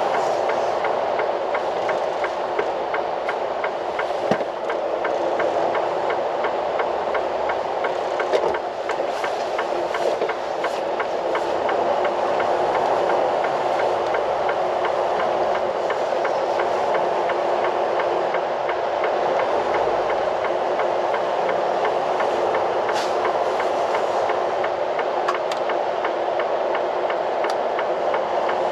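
Steady running noise of a semi-truck heard from inside the cab, with a faint, rapid, even ticking running through it.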